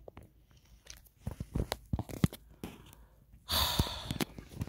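Handling noise: a scattered run of small clicks and knocks, with a rustling hiss lasting about a second, starting about three and a half seconds in.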